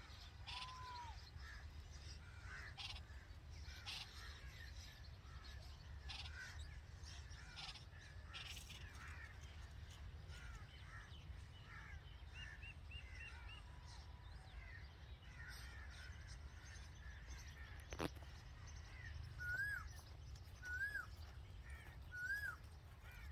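Red-vented bulbuls chirping: many short scattered chirps, a quick run of high notes midway, and near the end three louder arched calls about a second apart. A single sharp click comes just before the louder calls.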